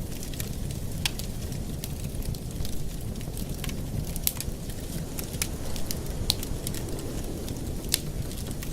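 Wood fire in a fireplace crackling: irregular sharp pops and snaps over a steady low rumble, with one louder pop near the end.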